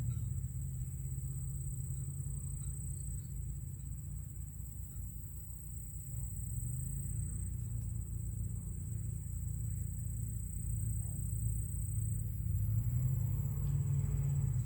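Breeze buffeting the microphone as a low, uneven rumble that swells and eases, with a steady high-pitched whine running over it.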